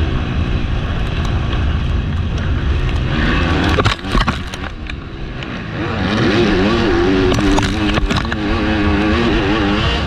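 MX2 motocross bike engine at race pace, revving up and down as the rider works the throttle, over heavy wind rumble on a helmet-mounted microphone. About four seconds in the engine drops off briefly with a couple of sharp knocks, then pulls hard again with a wavering pitch.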